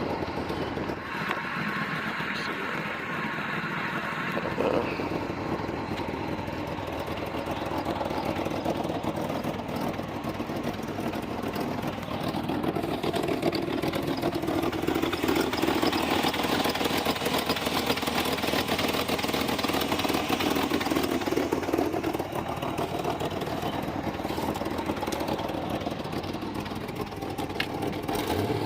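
A vehicle engine running steadily, a little louder through the middle stretch.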